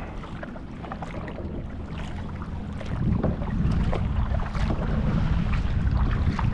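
Wind rumbling on the microphone, stronger from about three seconds in, with small water splashes and drips from kayak paddling.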